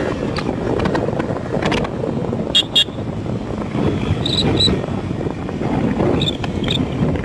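Motorcycle riding along, its engine and the wind rushing over the helmet microphone running steadily. Two sharp clicks about two and a half seconds in, then two pairs of short high-pitched beeps later on.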